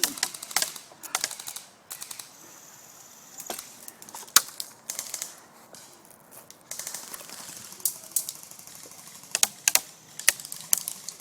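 Airsoft guns firing: scattered sharp pops and clicks, single shots and short quick clusters.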